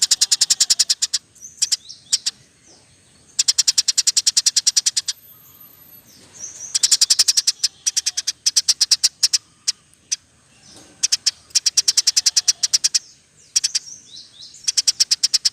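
Recorded mix of canary, lovebird and sparrow song used as a masteran training track: loud bursts of rapid, evenly spaced chirps lasting a second or two each, with short gaps and a few downward-sliding notes between them.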